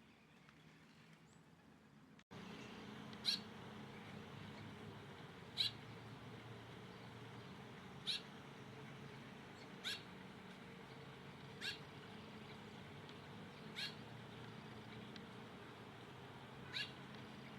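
A bird giving a short, sharp call about every two seconds, repeated seven times over a steady low hum that starts abruptly about two seconds in.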